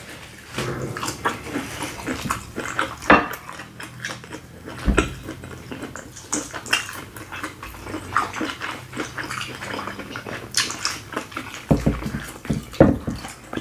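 Close-miked eating sounds: wet chewing and lip smacking on sauce-coated shrimp and corn, heard as an irregular run of sharp, wet clicks and smacks, a few of them louder.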